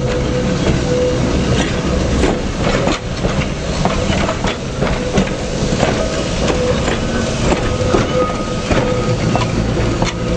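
Vintage electric railcar rolling along the track, its wheels clicking over the rail joints, over a steady rumble with a faint whine.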